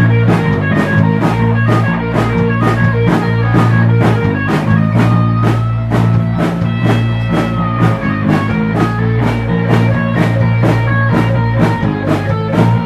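Live rock band playing an instrumental passage: electric guitar, bass and drum kit, with a steady driving beat of about four strokes a second.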